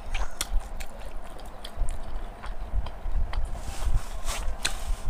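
Close-miked eating sounds: chewing pork and rice, with scattered short mouth clicks.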